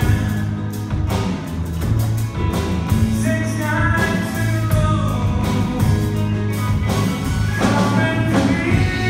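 Live band music with guitar: a slow ballad played continuously over a steady bass line.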